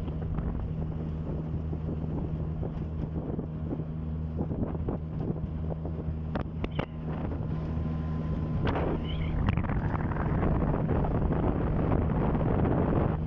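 A boat's outboard motor running at a steady speed with the boat under way, with wind buffeting the microphone and occasional knocks.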